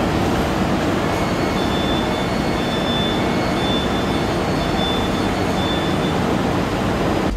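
Loud, steady noise on a railway platform beside a standing Siemens Desiro HC double-deck electric train, with a faint high tone that comes and goes.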